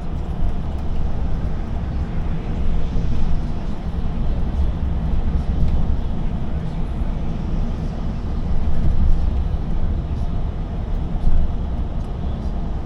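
Steady low rumble of a heavy truck's engine and tyres while driving, heard from the cab.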